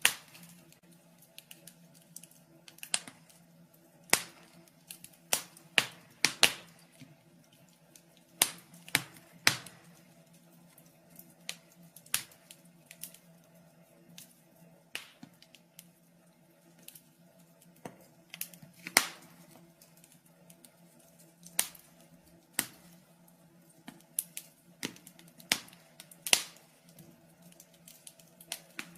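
Wood fire crackling in a fireplace: irregular sharp pops and snaps, some loud and some faint, coming in uneven clusters. A faint steady low hum runs underneath.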